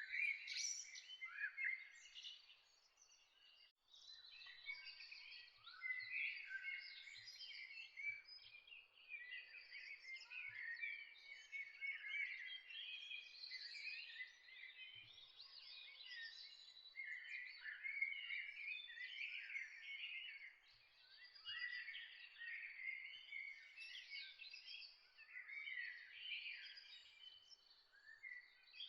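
Several songbirds chirping and singing at once in a dawn chorus, with dense overlapping short calls and trills. A thin high steady note runs under them, and there is a brief lull about three to four seconds in.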